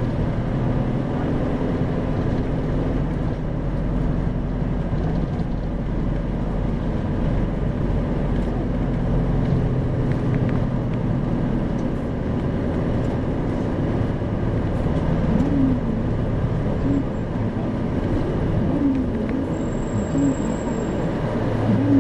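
Isuzu 2RG-LV290N4 bus heard from inside the cabin while under way: a steady diesel engine drone with road noise, its pitch rising and falling a little as the bus changes speed.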